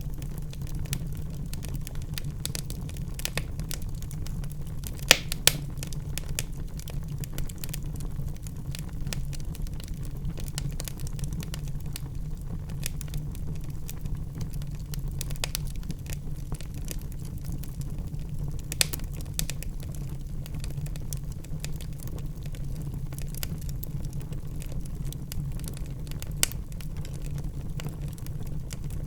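Wood fire in a fireplace crackling and popping over a steady low rumble of burning logs, with a few louder pops, about five seconds in and twice near the end.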